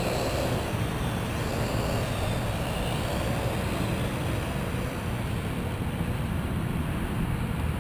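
Parrot AR.Drone quadcopter's electric rotors whirring in flight, under a steady low rumble, with a faint hum in the first second or so.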